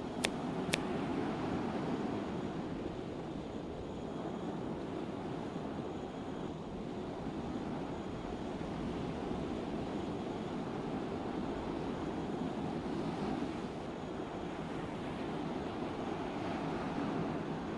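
Steady rushing of water and wind with no clear engine tone, and two sharp clicks less than a second in.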